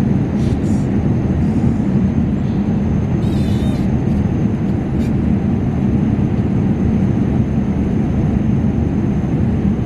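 Steady drone of an airliner cabin in flight: engine and airflow noise, even and loud with a low hum. There are a few brief faint rustles, one about three seconds in.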